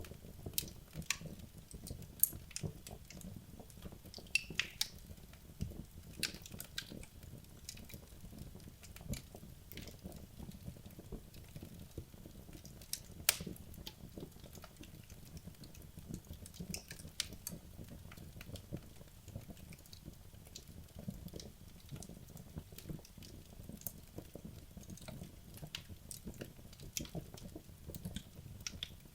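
Wood logs burning in a fireplace: irregular crackling and snapping, with a few louder pops, over a steady low rumble of the fire.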